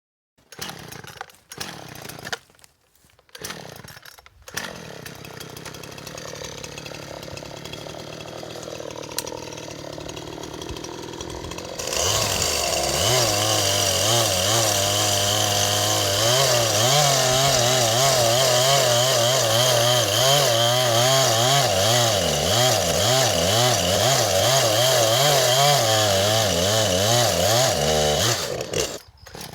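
Gas two-stroke chainsaw running at a low idle, then about twelve seconds in throttled up and cutting into a tree trunk, its pitch wavering under the load of the cut, until it drops off near the end.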